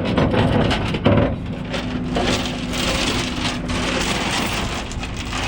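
An engine running steadily, with a few sharp knocks and crackling over it; the loudest knock comes about a second in.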